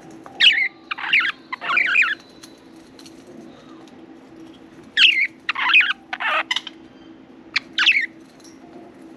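Pet budgerigars giving loud, harsh chirps in short bursts: a run of three near the start, another run of about four some five seconds in, and two short ones near the end. A faint steady hum lies underneath.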